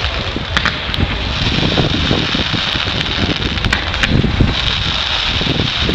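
Wind buffeting the microphone as an irregular low rumble over a steady hiss, with a few faint sharp clicks.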